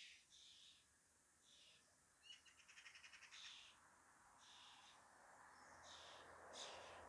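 Faint, raspy begging calls of baby birds repeated about once a second, with a quick rattling trill a little over two seconds in. A soft hiss rises in the second half.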